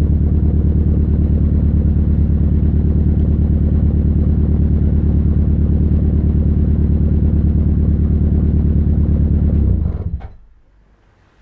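Fiat Punto GT's turbocharged four-cylinder engine, running on E85, idling steadily while warming up after a cold start, then switched off almost ten seconds in, the sound dying away quickly and leaving a couple of faint clicks.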